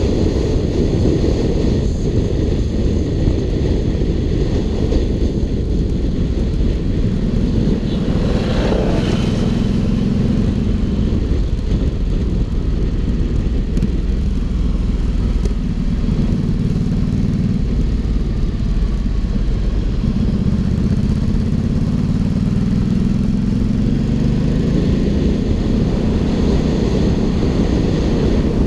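Ducati Hypermotard 796's air-cooled L-twin engine running through an Arrow aftermarket exhaust while the bike is ridden, its pitch climbing several times as it accelerates.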